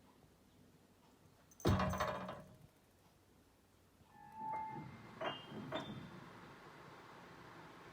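A cat stepping on piano keys. About two seconds in, a heavy thump sounds a cluster of notes together. From about four seconds in come a few scattered single notes: one mid note, then two high ones.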